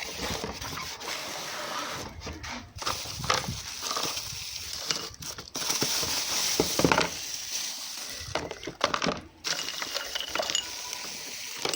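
Drinking glasses being handled, with irregular clinks and knocks against each other and a surface, over a steady hiss.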